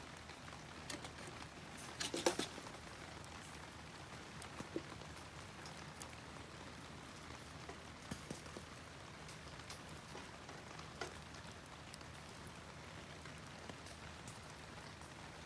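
Wood campfire crackling: scattered sharp pops over a faint hiss, with a cluster of louder crackles about two seconds in.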